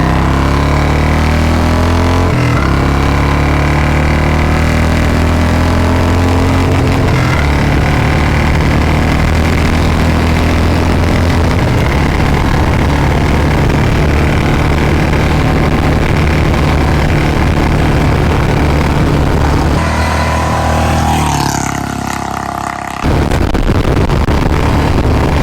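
Royal Enfield Bullet 350's single-cylinder engine, exhaling through a free-flow C-bend pipe and short Punjab silencer, loud under hard acceleration from standstill to 100 km/h and shifting up through the gears several times. Near the end the sound dips and changes for a few seconds before coming back loud.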